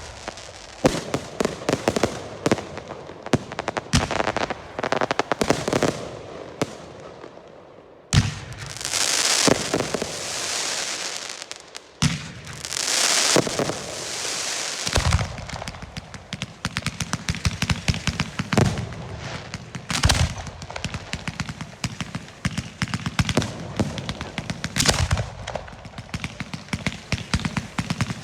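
Portuguese girândola fireworks: rapid strings of sharp bangs and crackling. Two long hissing stretches come about a third of the way in and near the middle, and heavier, deeper booming reports follow through the second half.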